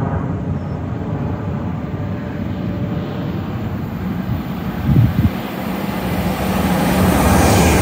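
A train approaching: a low rumble that grows louder over the last couple of seconds, with a brief low thump about five seconds in.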